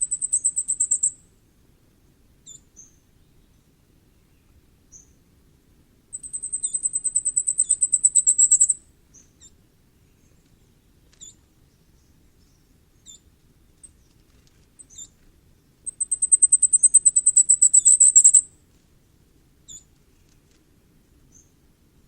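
Common firecrest singing: three songs, each a rapid run of very high, thin notes lasting about two and a half seconds, growing louder and ending in a short rising flourish. One song is finishing at the start, the others begin about six and sixteen seconds in, with a few faint single high notes between them.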